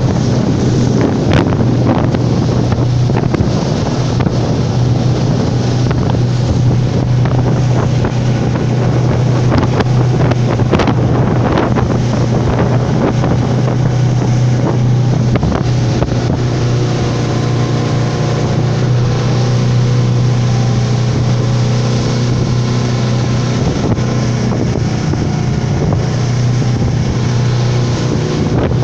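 Motorboat engine running steadily under way, a constant low drone with wind buffeting the microphone and water rushing past the hull.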